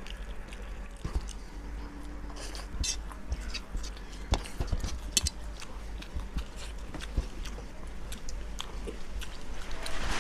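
People chewing and eating khichuri with fried fish cutlets and pakoras close to the microphone, with scattered short clicks over a steady low hum.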